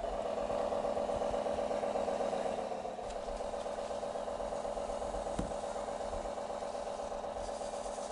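Radio-controlled model boat's small motor running with a steady whine, easing slightly about three seconds in, with a single click later on.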